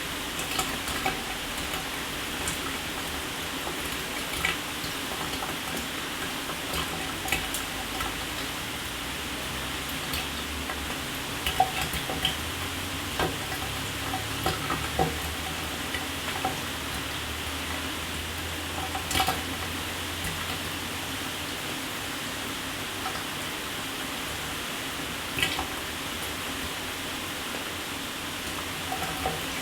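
Shower water spraying steadily onto a hard surface, with scattered sharper splashes and drips through it.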